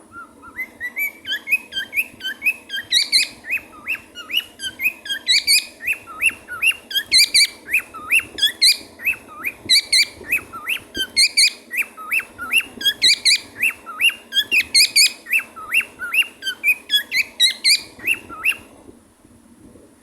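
Cockatiel chirping and whistling, a fast string of short repeated chirps, about three a second, that stops near the end.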